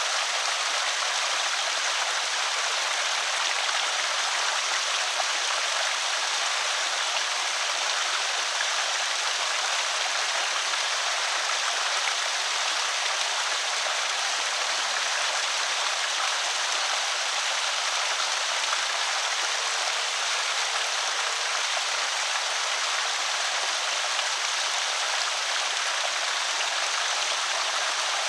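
Water pouring over a small creek spillway, a steady splashing rush.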